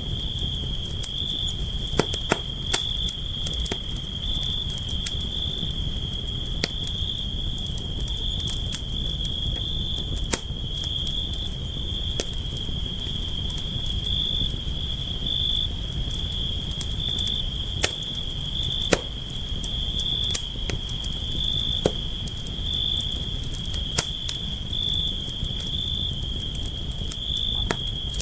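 Campfire burning: a low steady rumble of flames with irregular sharp crackles and pops. Insects chirr in one unbroken high tone underneath.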